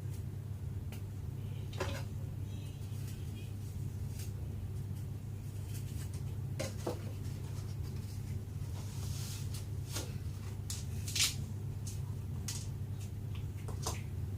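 Scattered light clicks and knocks of kitchen utensils and food being handled on a counter, the sharpest about 11 seconds in, over a steady low hum.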